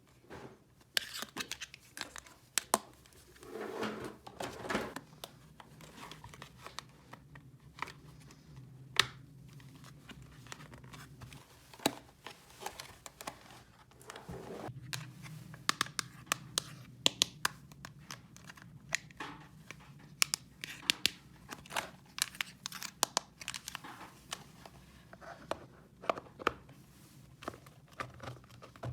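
Hands unwrapping and handling small plastic toy pieces: packaging crinkling and tearing, with many sharp clicks and taps of plastic parts.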